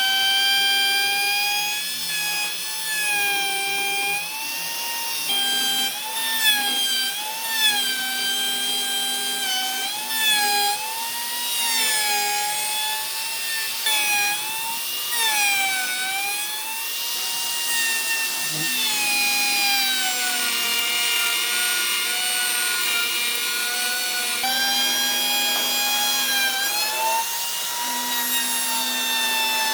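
A power tool's electric motor whining at high speed as it works wood, its pitch dipping and recovering over and over as it bites in and eases off.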